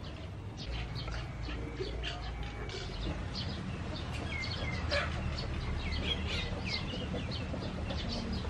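Birds chirping: many short, quick calls throughout, over a low steady rumble.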